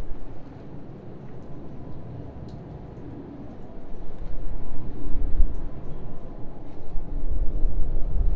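Low, uneven outdoor rumble of city and air traffic. It drops away about half a second in and swells again from about four seconds in.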